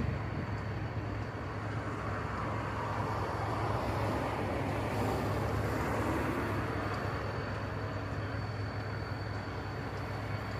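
Steady low hum of running machinery, with a broader wash of noise that swells in the middle and eases off again.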